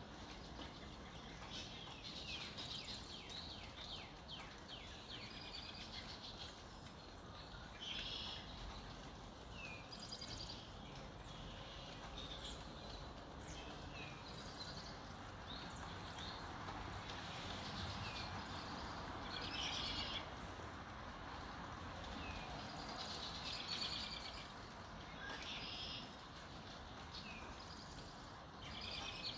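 Several birds singing and chirping together in a dawn chorus: a steady stream of short high chirps, quick trills and whistled phrases, over a soft outdoor hiss.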